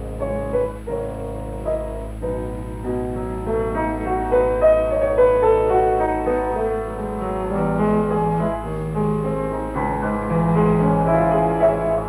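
Piano background music: a running melody of quick notes over a steady low hum from an old soundtrack.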